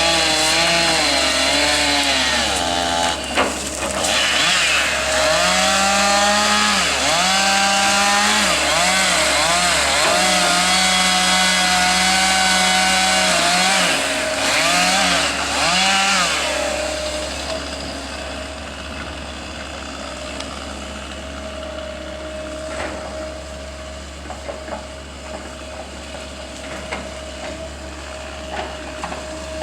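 Chainsaw cutting wood, its engine revving up and down and holding at high speed through the cuts. About seventeen seconds in, the saw falls away and a quieter, steady running sound remains.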